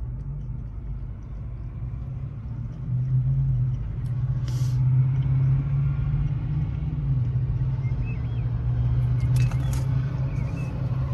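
Low, steady rumble of an idling car engine, growing louder about three seconds in, with a couple of short clicks.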